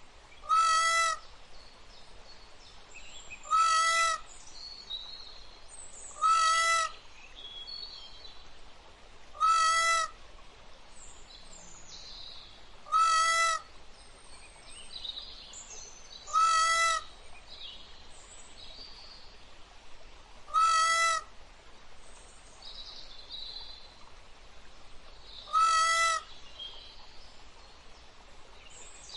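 A peafowl calling loudly and repeatedly: eight single, clear, ringing calls, each under a second long and spaced about three to four seconds apart, with the gap lengthening towards the end. Fainter high chirps from other birds fill the gaps.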